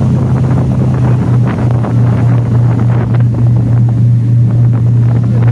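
Ferry's engine running with a steady low drone, with wind buffeting the microphone.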